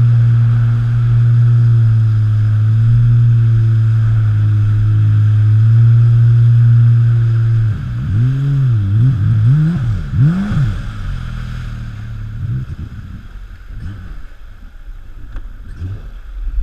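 Modified 220 hp jet ski engine running at a steady high speed, then from about eight seconds in its pitch swings up and down several times before it drops off and quietens.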